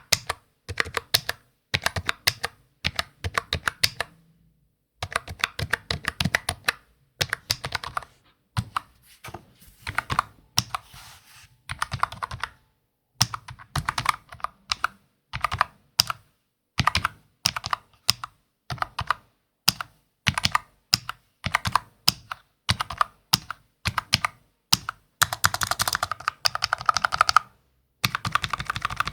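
Typing on a computer keyboard: bursts of quick key clicks broken by short pauses. There is a denser, brighter run of keystrokes a few seconds before the end.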